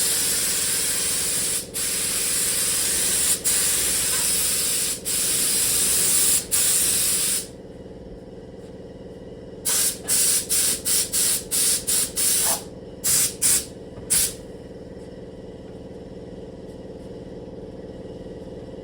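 Air spray gun spraying clear coat: long passes of steady loud hiss, each briefly broken where the trigger is let off. After a pause come about ten short bursts of spray, then the gun falls silent, leaving a faint steady low hum.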